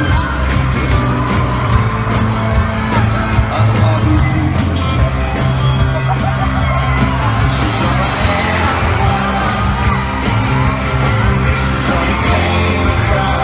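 Loud live folk-rock band music in a large hall, an instrumental stretch with heavy bass and held chords, with voices yelling and whooping over it.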